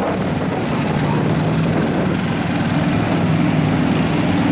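Mud truck engine running steadily, its note stepping up a little in the last second or so.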